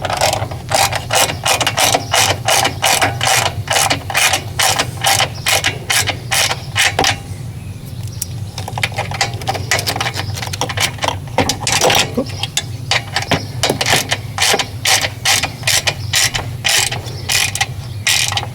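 Small hand ratchet clicking as a bolt on the generator's mixer assembly is tightened. It goes in runs of about three clicks a second, with a pause in the middle.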